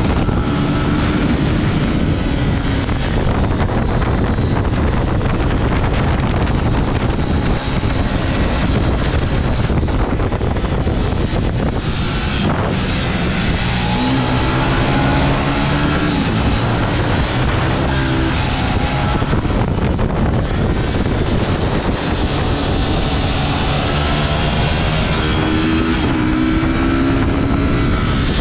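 Yamaha YZF-R125 single-cylinder four-stroke engine revving up and dropping again and again as it shifts through the gears, under heavy wind rush on the microphone. The rising engine notes stand out most in the second half.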